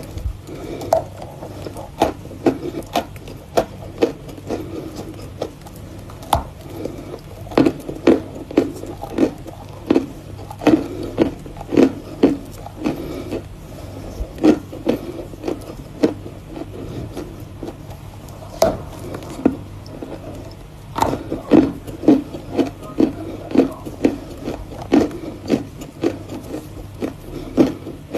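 Close-up chewing of lumps of Volokonovka chalk, a dry crunching that comes in runs of about two crunches a second, with a couple of short lulls.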